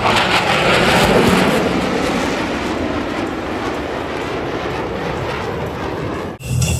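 Jet noise from Blue Angels F/A-18 Super Hornets in flight: a loud, even rush that eases slightly, then cuts off abruptly near the end.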